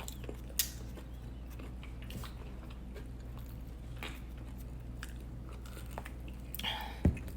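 A person chewing and biting pizza close to the microphone, with a few soft mouth clicks. Near the end there is a short rustle and a low thump.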